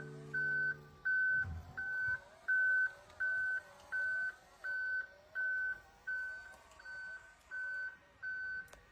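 A steady series of short electronic beeps, one high tone repeating about three times every two seconds, like a reversing warning beeper. A faint wavering whine runs beneath it.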